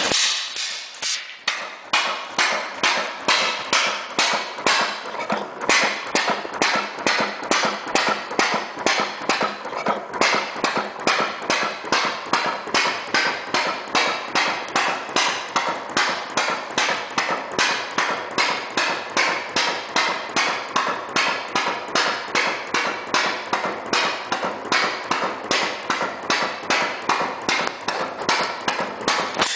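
Model 1883 Daimler experimental single-cylinder engine running on gasoline with hot-tube ignition and a flash carburetor. It makes a steady train of sharp firing beats, about two to three a second, with a couple of brief gaps in the first ten seconds.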